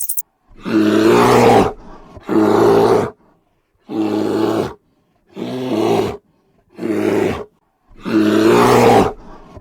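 A farm animal calling loudly six times, each call about a second long with short pauses between.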